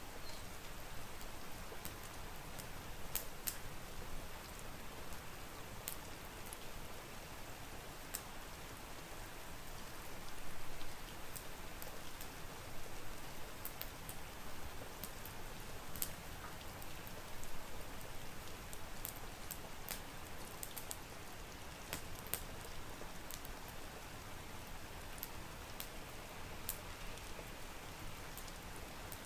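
Steady rain, an even hiss with scattered sharp ticks all through.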